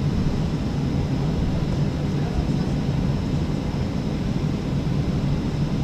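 Steady cabin noise of a Boeing 737 on the ground before take-off: a low rumble and hum with a faint high whine.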